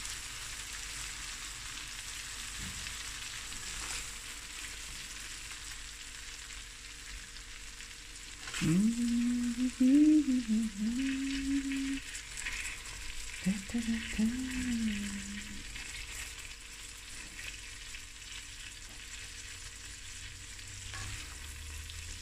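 Whole prawns sizzling steadily in hot oil in a stainless-steel pan as they are stirred and lifted out with a silicone spatula. Twice in the middle, a person hums a short tune over the sizzle, a few seconds each time; the humming is the loudest sound.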